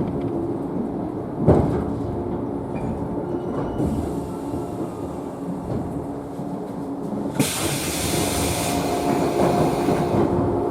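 JNR 113 series electric train standing at a station: steady hum of its onboard equipment, with a knock about a second and a half in. Seven seconds in, a clunk is followed by about three seconds of compressed-air hiss from the train's pneumatics as it readies to depart.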